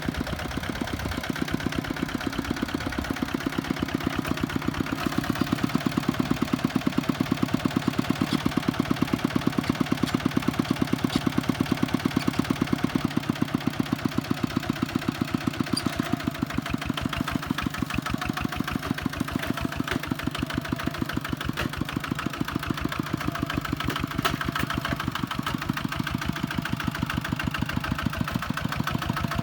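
Tractor diesel engine running steadily with a fast, even chugging beat.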